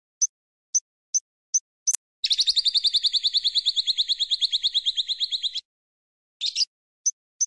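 A songbird giving short, sharp, high chirps about twice a second, breaking about two seconds in into a rapid buzzy trill of about ten notes a second that lasts over three seconds, then going back to single chirps.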